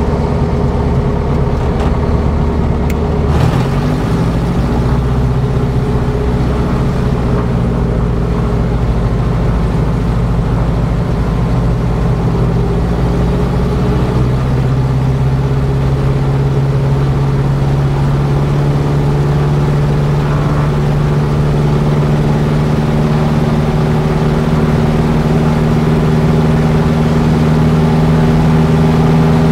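Lancair 360's four-cylinder Lycoming engine and propeller running on the ground; the engine speed steps up about three and a half seconds in, the note shifts again around fourteen seconds, and it then runs steadily, getting slightly louder near the end.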